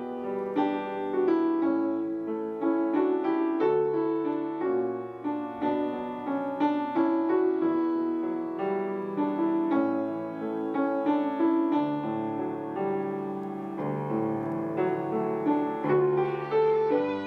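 Piano playing a hymn: a steady run of chords and melody notes.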